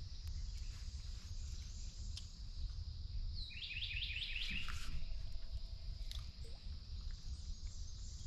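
Outdoor ambience: a steady high insect drone, with a bird giving a quick series of about six down-slurred chirps about three and a half seconds in.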